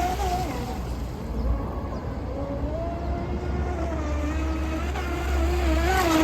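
UDI022 RC speedboat's electric motor whining as it runs on the water on a 4S battery, the pitch dipping and rising again as the throttle and distance change, over a steady low rumble.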